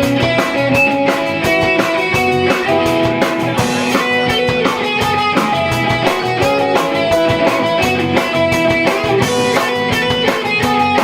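Rock band playing live: electric guitar over bass and drum kit, with a steady beat.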